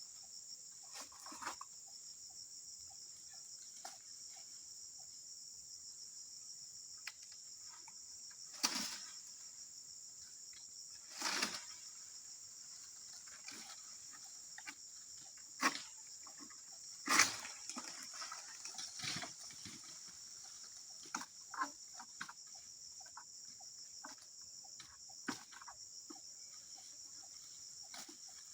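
Steady, high-pitched insect chorus, with a handful of sharp knocks and rustles breaking through it at irregular intervals.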